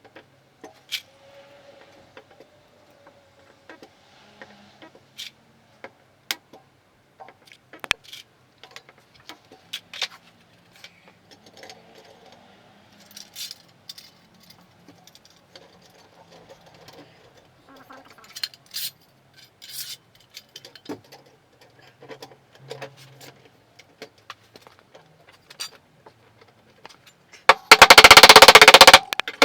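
Scattered light clicks and metal taps of tools on a car body panel, then near the end a loud buzzing burst lasting about a second and a half from a spotter (stud-welding dent puller) firing on the panel.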